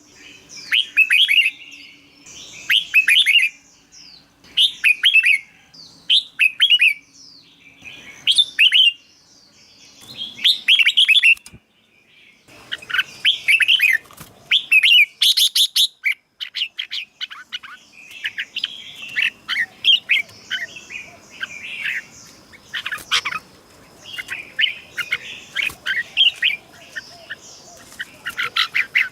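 Red-whiskered bulbul singing: short phrases of quick whistled notes repeated every second or two, coming thicker and closer together in the second half.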